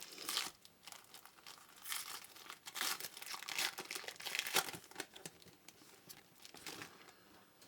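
Trading card pack wrappers being torn open and crinkled, in irregular crackling bursts that thin out toward the end.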